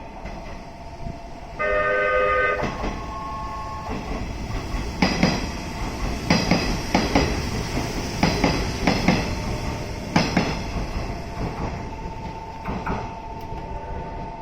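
A train sounds a short horn blast of about a second, about two seconds in, then runs past with a series of sharp wheel clacks over the rail joints, over a steady rumble.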